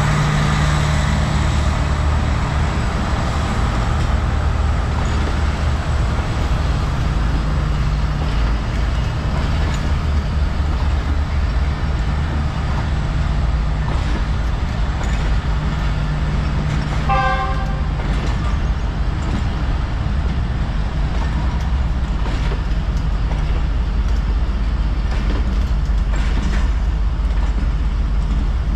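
GEU-40 diesel-electric locomotive running with a steady low engine drone, and one short horn toot of about a second a little past the middle.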